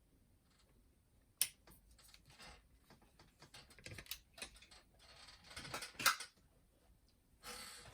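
Cassette deck keys on a boombox being pressed, with sharp mechanical clicks and some rattling. The loudest clicks come about a second and a half in and again about six seconds in.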